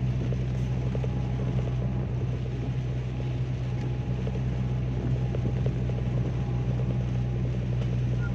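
Car cabin noise while driving on a highway in heavy rain: a steady low drone of engine and tyres, with rain pattering on the car.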